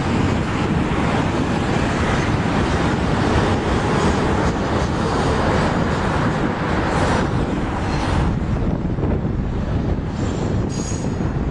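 Canadian National train rolling past, its steel wheels running on the rails in a steady, loud rumble with some clickety-clack. The hissing top of the sound thins out about eight seconds in, and a brief, faint, high wheel squeal comes near the end.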